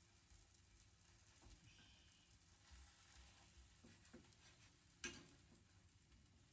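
Faint sizzling of food frying in butter in a frying pan, with one sharp click about five seconds in.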